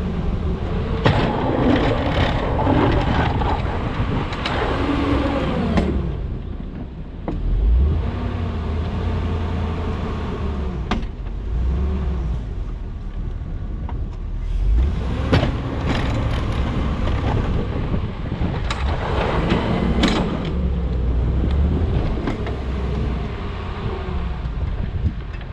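Pickup truck plowing snow with a Western UltraMount plow: the engine runs and revs up and down in two stretches as it pushes, with several sharp clanks from the plow.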